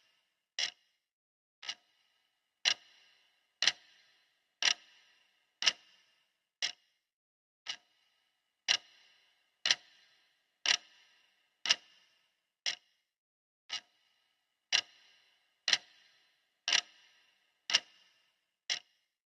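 Clock ticking steadily, one sharp tick a second with a brief ring after each, some ticks fainter than others.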